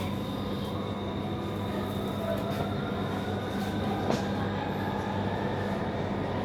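Metro train running, heard from inside the passenger car: a steady low hum over rolling noise, with a faint whine that slowly rises in pitch and a single click about four seconds in.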